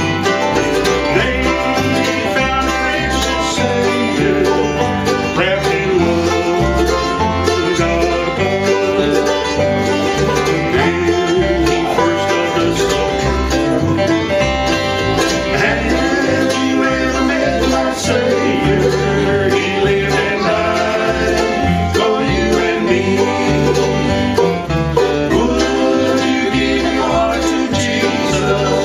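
Bluegrass gospel band playing live, with banjo and guitar over a steady bass beat.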